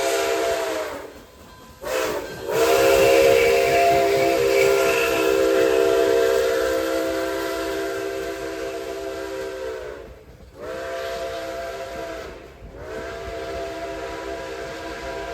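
Steam locomotive chime whistle, likely Nickel Plate Road No. 765's, sounding several blasts: a blast that cuts off about a second in, a short toot, a long blast of about eight seconds, then two more blasts. Each blast sounds several notes at once and bends in pitch as it opens and closes, over a light hiss of steam.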